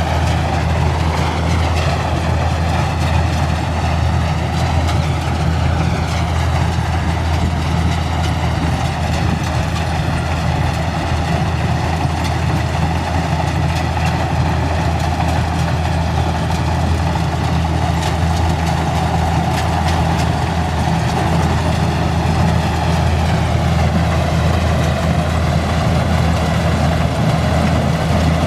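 Kubota rice combine harvester's diesel engine running steadily, with a higher machine whine that drifts slowly up and down.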